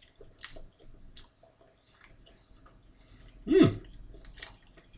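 A person chewing a mouthful of pasta, with small wet mouth clicks, and one short hummed 'mm' about three and a half seconds in.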